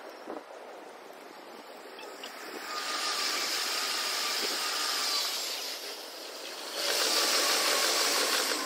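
JR electric commuter trains passing over the rails, sped up about six times: two pass-bys come in quick succession as a rushing noise that swells about three seconds in, eases briefly, then swells again near the end, with a faint steady whine in the first.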